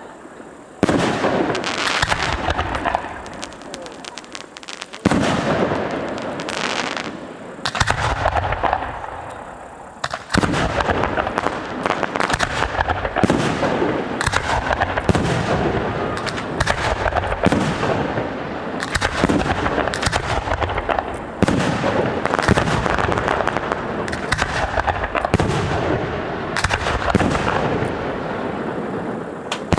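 Aerial fireworks bursting: separate bangs and crackling over the first ten seconds, then a dense run of rapid bangs, one after another, to the end.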